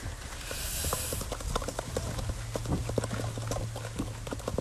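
Rapid, irregular clicking and tapping of a metal whisk against a mixing bowl as batter is mixed, over a low steady hum, with a brief hiss about half a second in.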